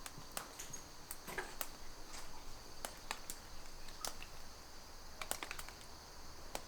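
Faint, irregular footsteps and small clicks, with a faint steady high-pitched hum underneath.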